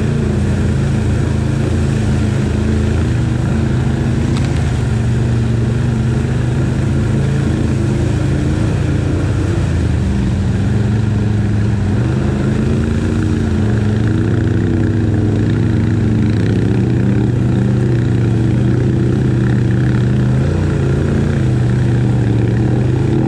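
ATV engine running steadily at low speed, its pitch dipping and rising slightly as the throttle changes partway through.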